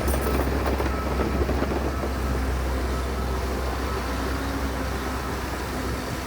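Heavy earthmoving machine's diesel engine running steadily with a low rumble.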